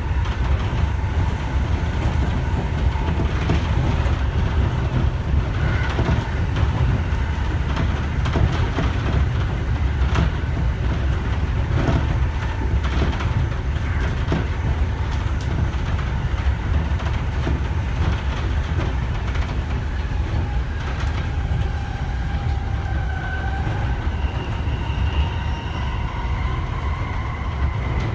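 Interior running noise of a JR E231-1000 series electric commuter train at speed: a steady low rumble with scattered clicks of the wheels over rail joints. Faint whining tones waver in pitch in the last few seconds.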